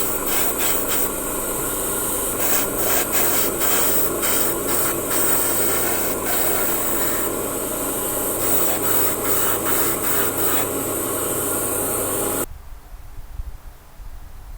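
A small electric power tool running steadily with repeated scraping or rubbing contact against the workpiece. It cuts off suddenly about twelve seconds in.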